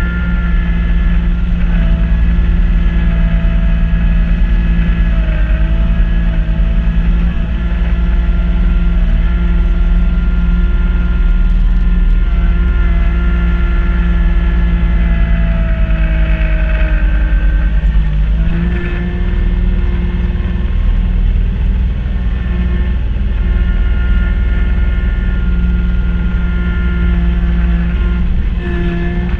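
Kubota B2650 tractor's three-cylinder diesel engine running steadily while driving a front-mount snow blower, its pitch dipping briefly about two-thirds of the way through before recovering.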